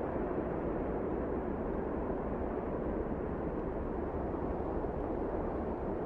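Blizzard wind blowing steadily: a dense, even rushing noise with no single gust standing out.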